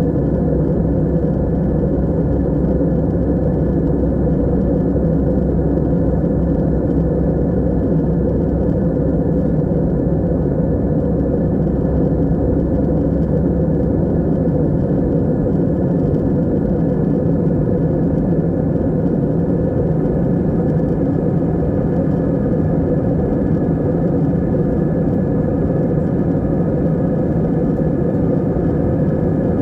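Steady drone of an aeroplane in flight, heard from inside the cabin: an unbroken low rumble of engines and airflow with faint steady tones in it.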